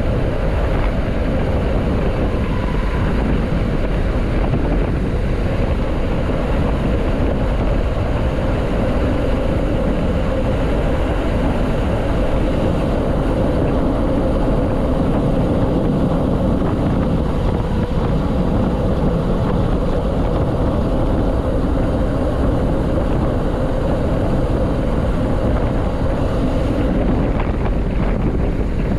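Steady low rumble of wind buffeting the microphone, unbroken throughout.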